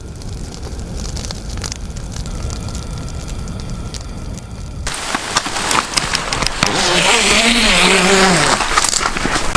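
A low steady rumble, then from about five seconds in, heavy rain pattering densely on a surface, growing louder. Near the end there is a brief falling pitched sound.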